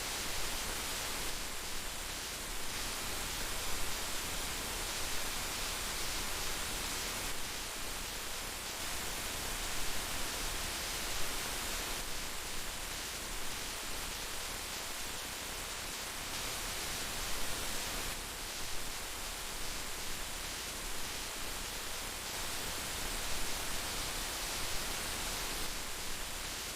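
Heavy rain falling in a steady, dense hiss, with small irregular swells in loudness.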